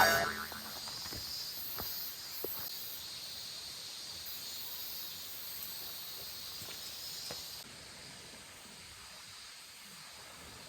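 Steady high-pitched hiss of outdoor ambience, with a few faint ticks; the hiss drops in level about eight seconds in.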